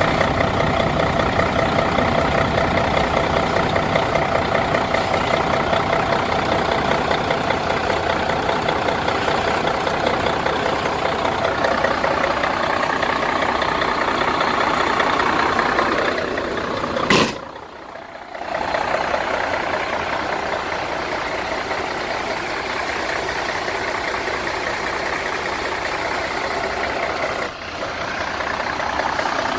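Mercedes-Benz Actros 2643 tipper truck's diesel engine idling steadily. A sharp click comes a little past halfway, followed by a brief dip in the sound.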